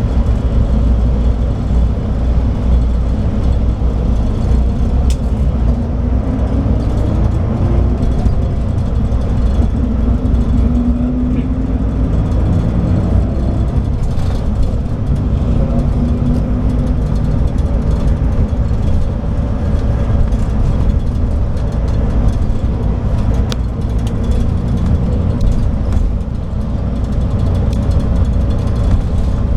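Scania K340IB coach's DSC9 diesel engine running under way, a steady low rumble, with the engine note rising as it accelerates from about six to eleven seconds in.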